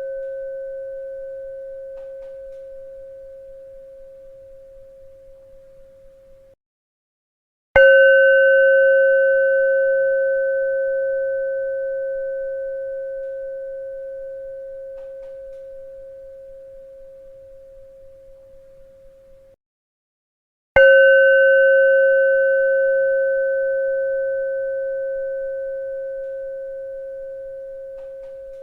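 A bell struck and left to ring, one clear steady pitch with a few higher overtones, dying away slowly over about twelve seconds. At the start the ring from an earlier strike is fading. It cuts off abruptly, about a second of silence follows, and then the bell is struck again. Another strike comes about thirteen seconds later.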